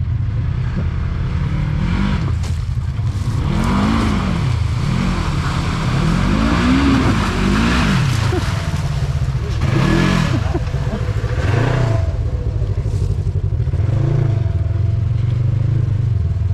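Off-road vehicle engine revving up and dropping back again and again, about six times over some ten seconds, over a steady low running note.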